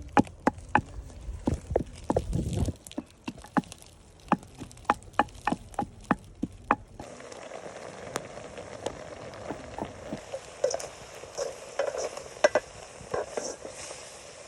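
Sharp, fairly regular knocks, about three a second, of food being chopped on a wooden board, stopping abruptly about halfway through. Then food frying in a pan, a steady sizzle with small crackles.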